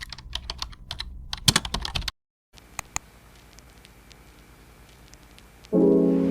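Typing on a computer keyboard, a quick run of key clicks that cuts off abruptly about two seconds in, followed by two more clicks and a faint hiss. Soft piano music comes in near the end.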